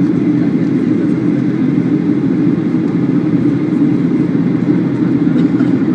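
Steady, even cabin drone of a Boeing 737-800 in flight on descent: engine and airflow noise heard from inside the passenger cabin.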